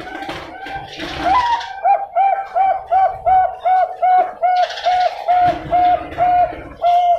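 Bangkok-type zebra dove (perkutut) singing: a few soft, low coos, then a rising note about a second in and a long even run of short, repeated coos, close to three a second.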